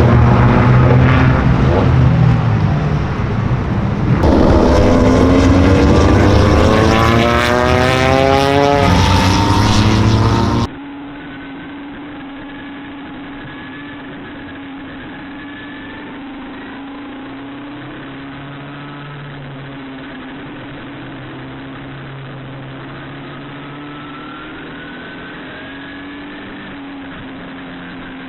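Race car engines running on track, loud, with several rising revs as cars accelerate. About ten seconds in the sound cuts abruptly to a quieter, muffled, steady engine drone whose pitch slowly rises and falls.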